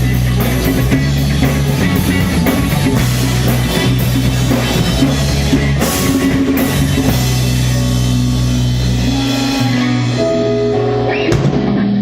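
Rock band playing live: drum kit, bass and electric guitar. About ten seconds in the drums drop out, apart from one more hit, and bass and guitar carry on.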